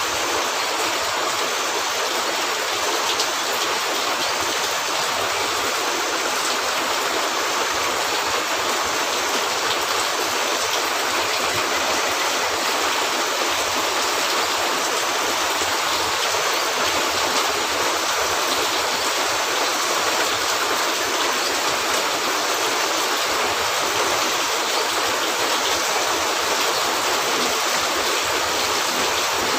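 Steady heavy rain falling on a roof, an even dense hiss without pause.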